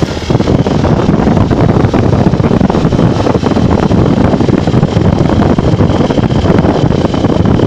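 Wind buffeting the microphone of a Honda Bros 150 motorcycle riding at speed, a steady rushing noise mixed with the running of its single-cylinder engine.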